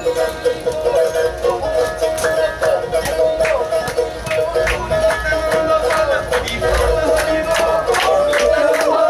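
Live folk music: held, droning melody tones with a regular beat of sharp percussive strikes.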